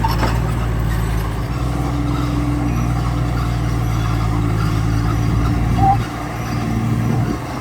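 Heavy construction machine's diesel engine running steadily, with a brief high squeak about six seconds in, after which the engine sound drops slightly.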